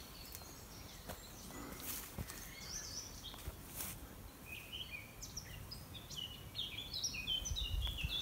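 A woodland songbird singing a run of short, high notes, busier in the second half, with a few faint clicks.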